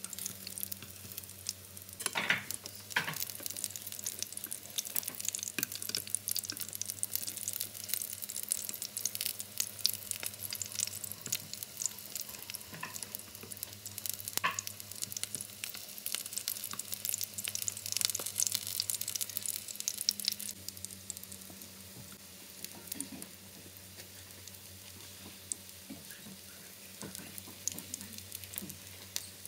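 Fish patties frying in oil in a pan, sizzling and crackling, with a few sharper clicks. The crackle eases off about two-thirds of the way in.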